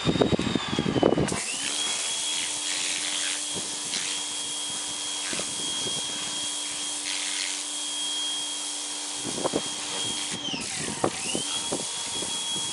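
Pressure washer spray blasting the scales off a flounder: a steady hiss with a high whine over it. The spray starts about a second in, and the whine dips in pitch and recovers once near the end.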